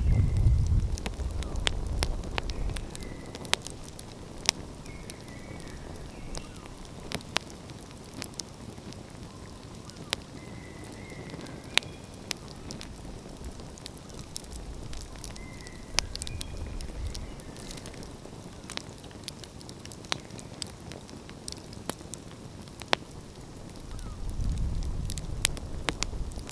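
Wood fire crackling, with sharp irregular pops and snaps. A low rumble swells at the start and again near the end.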